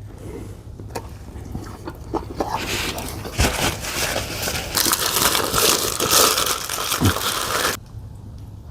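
Food wrapping being crumpled and handled: a few scattered crackles at first, then about five seconds of dense crinkling that stops abruptly near the end.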